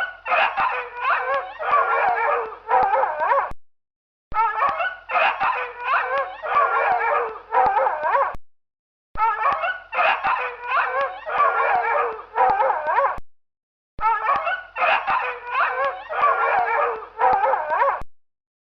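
Dog whining and yelping with wavering high-pitched calls, in four bursts of about four seconds each separated by short gaps.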